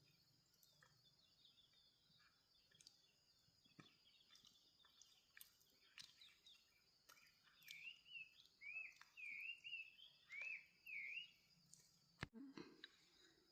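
A bird singing a run of about six short swooping notes in the second half, after scattered faint chirps, over a steady high-pitched drone in a quiet rural background. A single sharp click comes near the end.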